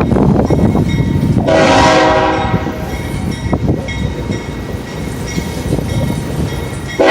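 Union Pacific locomotive's deep air horn sounding one blast about a second and a half in, over the rumble of the moving train. A second blast starts right at the end.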